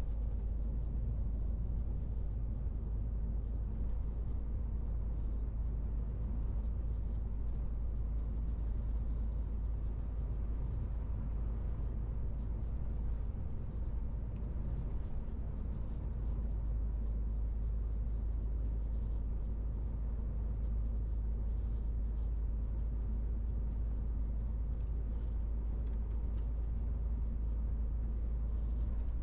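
MAN TGX 18.470 truck driving: its diesel engine and the road noise make a steady low rumble with no break.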